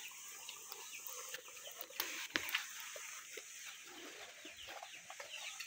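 Faint bird calls, clucking, with two sharp knocks about two seconds in.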